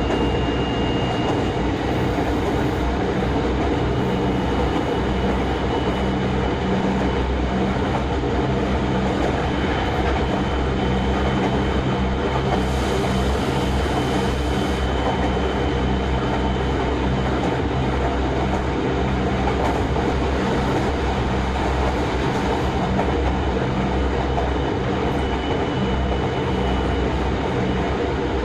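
Tokyo Metro 03 series VVVF electric train running at a steady speed, heard from inside the passenger car: a constant rumble of wheels on rail with a thin, steady high tone over it. A brief high hiss comes about halfway through.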